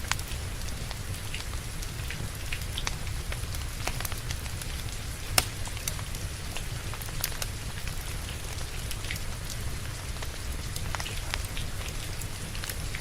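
Steady rain mixed with a wood fire crackling: a continuous hiss with a low rumble, broken by scattered sharp crackles and pops, one louder pop about five seconds in.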